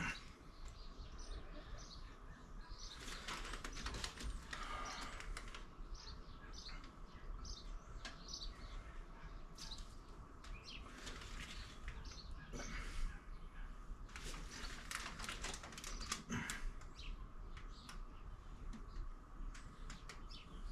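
Small birds chirping in the background, with scattered faint clicks and knocks.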